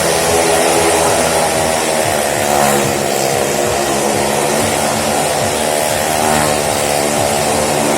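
Motorcycle and car engines running continuously at high, steady revs, a dense engine drone as the vehicles circle the wall of death.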